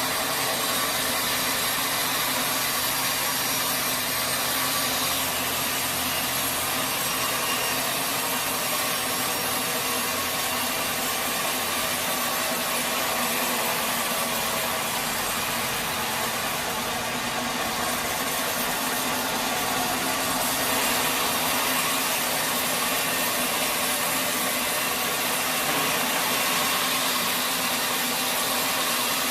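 Sawmill saw cutting steadily through a teak log, a continuous even rasp of the blade in the wood.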